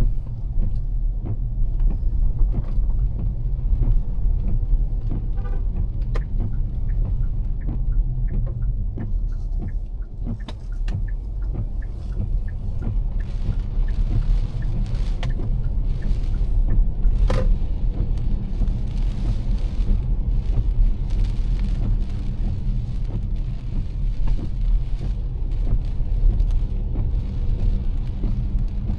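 Car driving in heavy rain: a steady low rumble of road and engine, with raindrops tapping on the car throughout and one sharper tick a little past the middle.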